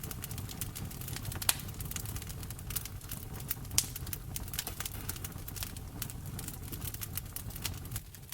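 Wood fire in a fireplace crackling: a steady run of small snaps and ticks over a low rumble of flame, with two louder pops, about one and a half seconds in and just before four seconds.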